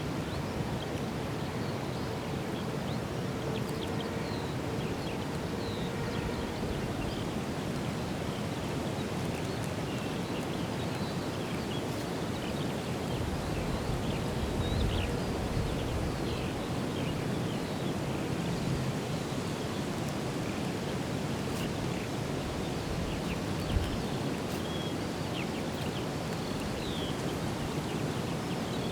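Outdoor ambience: a steady rushing noise with many faint, short bird chirps scattered through it, and a single brief click near the end.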